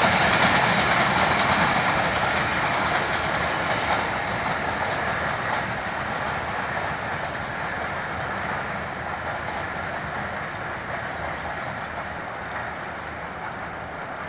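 Passenger train rolling away just after its last coach passes, the wheels running on the rails and fading steadily into the distance.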